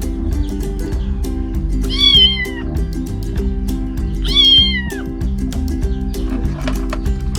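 A kitten meowing twice, about two seconds apart: two high calls that fall in pitch at the end, over steady background music.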